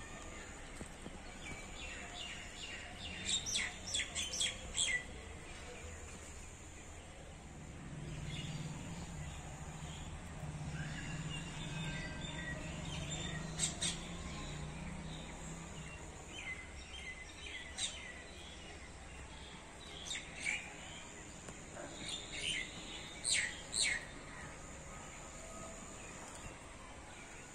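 Birds chirping in scattered bursts of quick, high calls, loudest a few seconds in and again near the end, over a steady background hiss. A low drone runs under the middle stretch.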